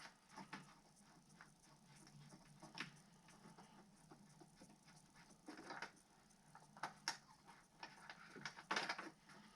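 Faint, scattered small clicks and taps of hands working small plastic parts: a retaining ring being threaded onto the back of a 12 V power socket.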